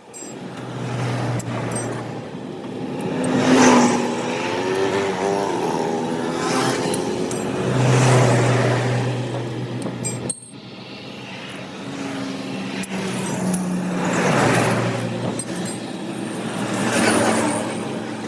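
Road traffic passing close by: vehicles one after another, each swelling and fading, with engine hum underneath. The sound breaks off abruptly about ten seconds in and then resumes.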